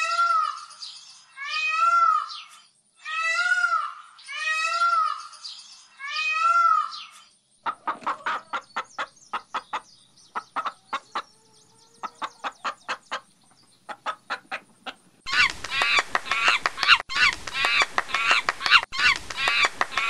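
A run of different animal calls. First comes a string of about six loud, evenly spaced calls, each rising and falling in pitch. Then a hen clucks in quick short notes. About three-quarters of the way through, loud harsh calling breaks in and keeps going.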